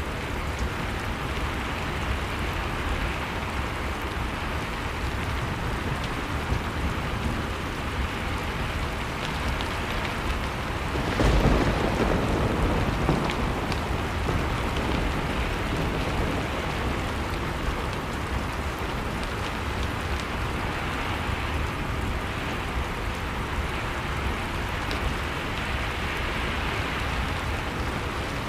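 Blizzard and fireplace ambience: a steady rushing wind noise, swelling into a louder, deeper surge about eleven seconds in, with a few faint crackles from the fire.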